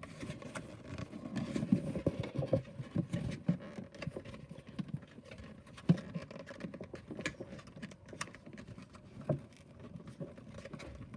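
Cardboard playset pieces being handled and worked together: irregular taps, scrapes and rustles as tabs are pushed into slots, with a sharper knock about six seconds in.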